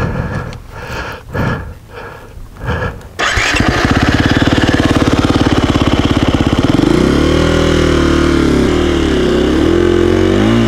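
A KTM 350 EXC-F dirt bike's single-cylinder four-stroke engine starts abruptly about three seconds in, after a few short scattered noises, runs at a steady fast idle, then is revved up and down in the last few seconds.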